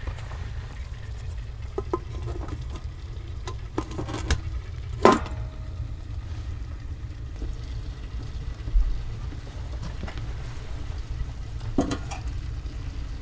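Steady low rumble of strong wind, with scattered knocks and clatters of things being handled, the loudest about five seconds in.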